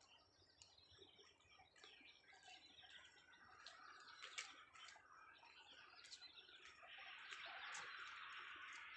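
Faint birdsong: many short chirps and calls overlapping, growing denser and a little louder in the last couple of seconds.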